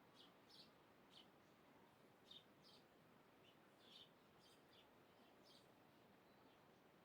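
Faint bird chirps: short, high calls, about a dozen at irregular intervals, over a soft steady background hiss.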